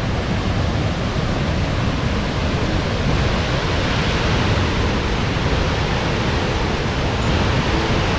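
Waterfall cascades rushing: a steady, dense noise of falling water with no breaks.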